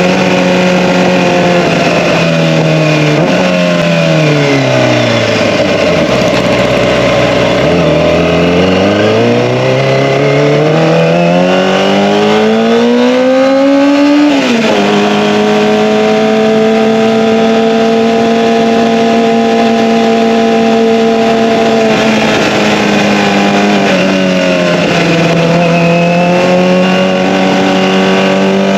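Kawasaki ZX-25R's 250 cc inline-four engine through an Akrapovic Evolution exhaust, ridden on the road. The engine note falls away to near idle as the throttle closes. It then revs up smoothly, drops sharply at a gear change about halfway through, and settles into a steady cruise, easing off briefly near the end.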